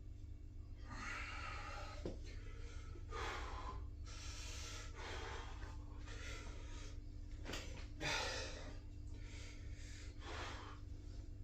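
A man breathing hard from exertion, with about ten forceful, rhythmic breaths roughly a second apart, over a steady low hum.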